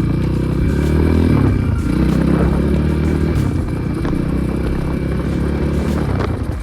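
Air-cooled 300 cc enduro motorcycle engine running under way, its revs dropping about two seconds in with a shift or throttle-off, then pulling again and easing off near the end.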